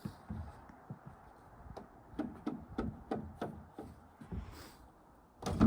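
A run of light, sharp knocks on wood, about three a second, from about two seconds in, with a louder thud right at the end.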